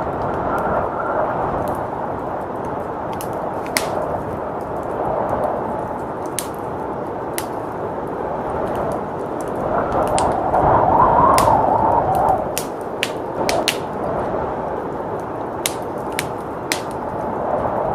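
Wood fire crackling in a fireplace, with frequent sharp pops, over the steady rush of blizzard wind. The wind swells into a louder gust about ten seconds in and dies back after a couple of seconds.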